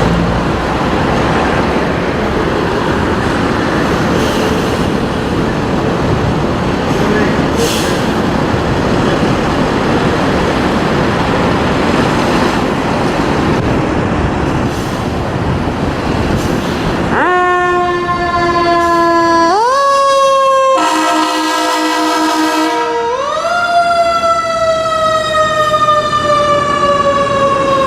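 Fire engine siren on a 2012 KME pumper. For most of the stretch there is only the apparatus's steady, loud running noise. Then the siren comes on suddenly and wails in repeated sweeps, each rising quickly and falling slowly, with a brief held, wavering tone in the middle.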